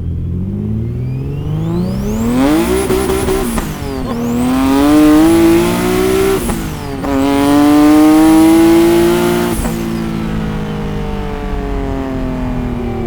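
Single-turbo Infiniti G37's VQ37VHR V6 at full throttle, pulling through the gears with two quick upshifts about four and seven seconds in, then lifting off near ten seconds. A high turbo whistle climbs with the boost and dips at each shift. The rear tyres are spinning in second and third.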